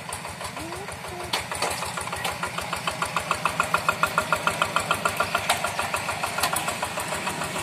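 Diesel engine of a paddy-field hand tractor running with a steady, even chugging beat, a little louder in the middle.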